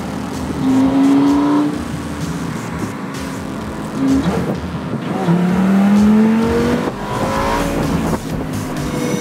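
Car engine revving up under acceleration, its pitch rising in two long pulls, about a second in and again from about five seconds in.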